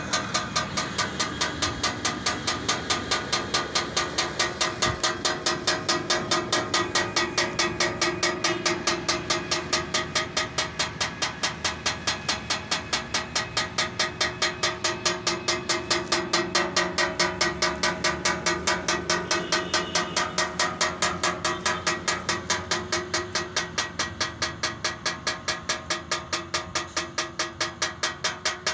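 Solar-powered bird scarer running, a mechanism clattering in a steady, even rhythm of about five strokes a second.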